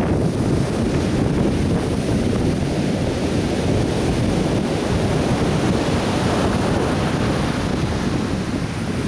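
Atlantic surf breaking and washing up the beach in a continuous rush, with wind buffeting the microphone as a low rumble underneath.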